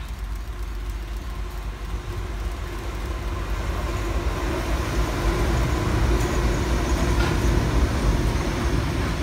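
Diesel-electric freight locomotives of a Pacific National train approaching and passing, their engines and wheels giving a low rumble with a steady engine note that grows louder as they draw level.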